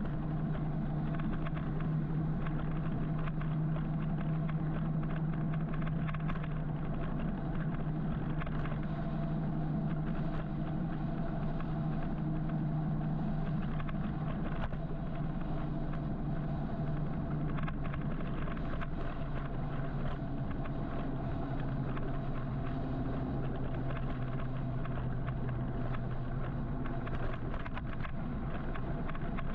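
City road traffic: a steady low engine hum over continuous road noise, the hum shifting a little in pitch about halfway through.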